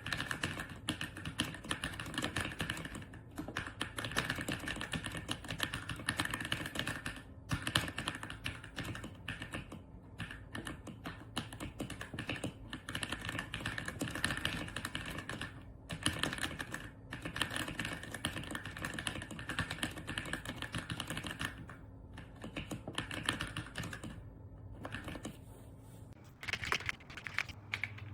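Typing on an AULA F99 mechanical keyboard: a fast, continuous run of key clicks with a few short pauses.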